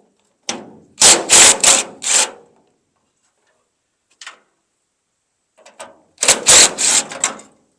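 Impact wrench running a tailgate hinge bolt in two groups of short, rattling bursts, about a second in and again near the end.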